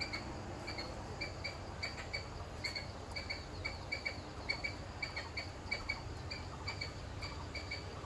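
A bird chirping steadily: short high notes repeated several times a second, often in quick pairs.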